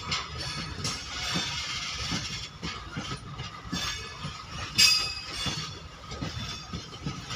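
A loaded goods train's open-top freight wagons rolling past, wheels clattering on the rails with repeated high-pitched squeals. The loudest squeal comes about five seconds in.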